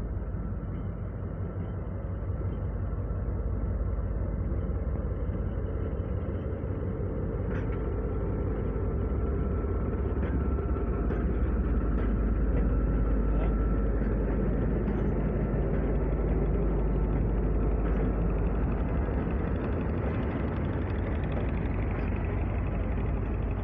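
Diesel-hauled passenger train passing close by. The locomotive's engine makes a steady low rumble that grows loudest as it goes past, about halfway in. The coaches then roll by with steady wheel noise and a few sharp clicks.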